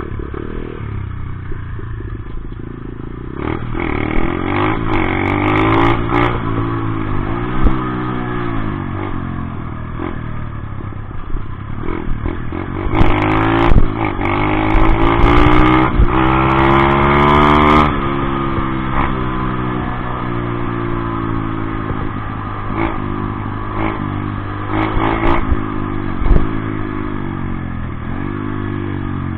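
Dirt bike engine being ridden hard, revving up and down with the pitch climbing and dropping again and again. It is loudest in a long pull near the middle, with occasional sharp clicks and clatter.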